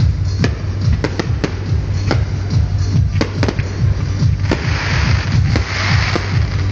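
Fireworks going off over music with a strong bass line: a string of sharp bangs and cracks, and from about two-thirds of the way in, repeated swells of hissing crackle.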